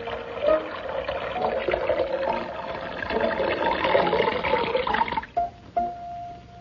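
Rushing, gushing water sound effect over the cartoon's music score, cutting off about five seconds in, followed by a few plucked string notes.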